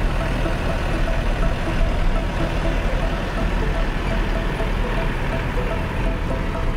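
Motor vehicle engine running steadily, a constant low engine noise with no change in speed.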